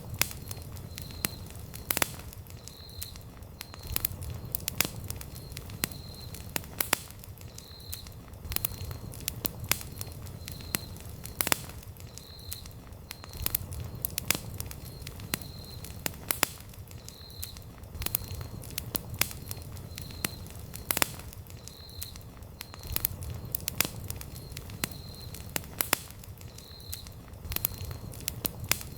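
Wood campfire burning, with frequent sharp crackles and pops over a low, steady rumble of flame.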